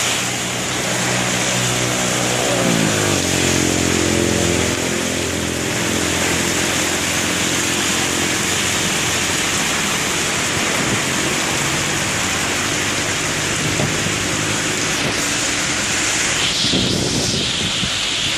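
Heavy rain pouring steadily in strong wind. A low humming drone drops in pitch about three seconds in and fades out over the next few seconds.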